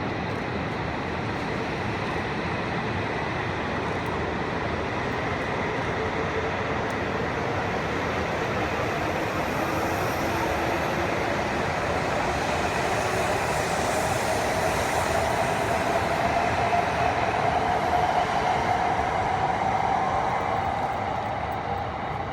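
E5 series Shinkansen train pulling out along the platform: a steady rush of running noise that slowly builds, with an electric motor whine climbing slightly in pitch in the second half and easing off near the end.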